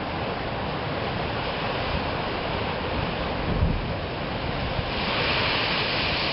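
Ocean surf breaking and washing against the shore, with wind buffeting the microphone in a brief low thump partway through; the hiss of the surf swells about five seconds in.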